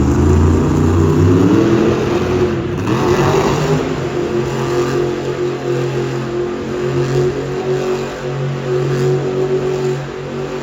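Monster truck engine revving, rising in pitch over the first few seconds and then holding at a high, slightly wavering rev.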